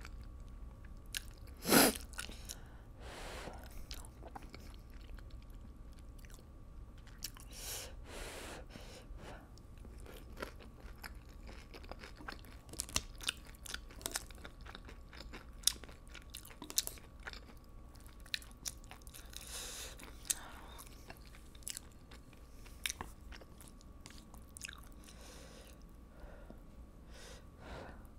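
A person chewing and biting spicy rice cakes and noodles close to the microphone, with many small wet clicks and smacks. A few louder, longer noisy sounds come through, the loudest about two seconds in.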